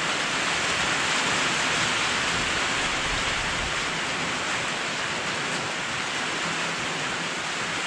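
Steady rain on a sheet-metal carport roof: an even, unbroken hiss.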